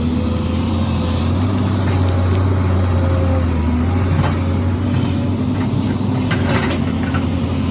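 Excavator's diesel engine running steadily with a strong low hum, with a few short knocks about four seconds in and again near the end.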